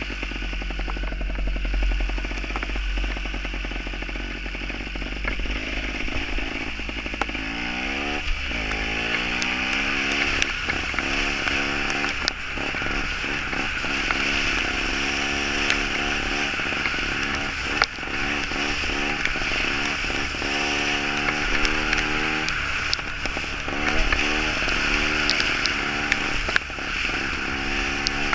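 Gas Gas two-stroke trials motorcycle engine running while ridden, revving up about eight seconds in and then rising and falling with the throttle. Scattered sharp knocks and clatter come through over a steady hiss.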